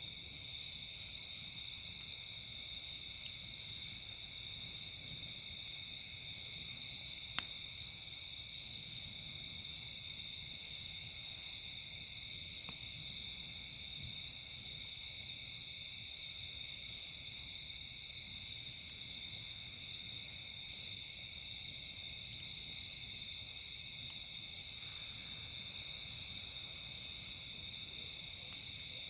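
Steady chorus of crickets and other insects, with a higher insect call repeating about every five or six seconds. A campfire pops sharply twice.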